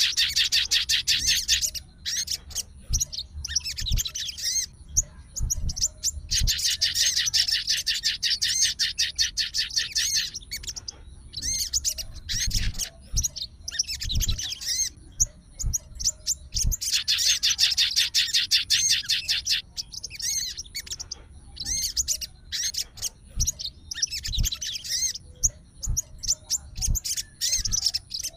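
Sogon songbird singing in long, fast trills of rapidly repeated high notes, each run lasting a few seconds, with shorter phrases between them.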